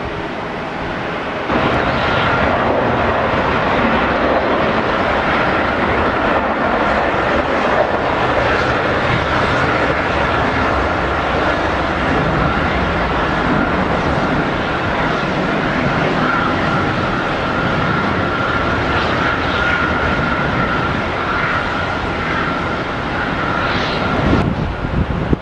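Jet airliner engines running close by: a dense rumble with a steady high whine over it. It starts abruptly about a second and a half in and drops away just before the end.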